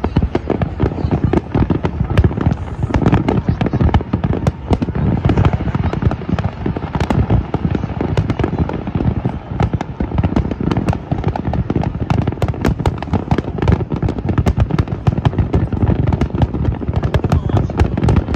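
Dense aerial fireworks barrage: rapid, overlapping bangs of many shells bursting at once, with no let-up.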